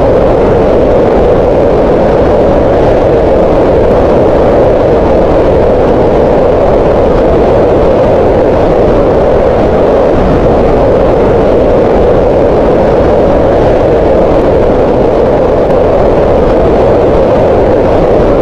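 Green noise: a loud, steady hiss with its energy centred in a band around 500 Hz, unchanging throughout.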